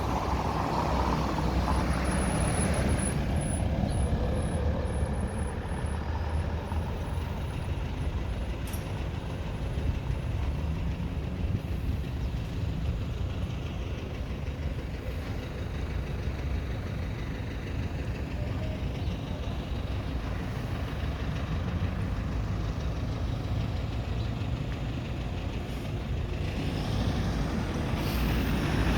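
Street traffic: a steady low rumble of vehicle engines and tyres, swelling near the start and again near the end as vehicles pass close.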